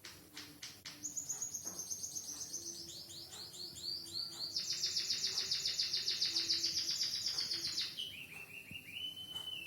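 Emprit kaji (white-headed munia) singing a canary-style song it has learned: a fast, high trill of repeated notes, about ten a second, that starts about a second in and steps lower in pitch near the end.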